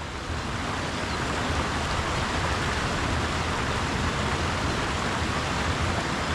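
Steady rushing water noise, swelling slightly over the first second, with an uneven low rumble of wind on the microphone underneath.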